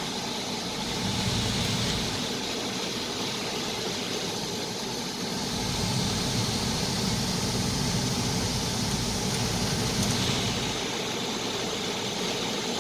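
Steady engine hum with a hiss, swelling slightly about a second in and again around six seconds.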